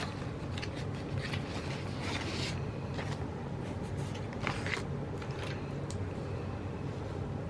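Faint scraping and a few light taps from work on a paper planner, over a steady low hum.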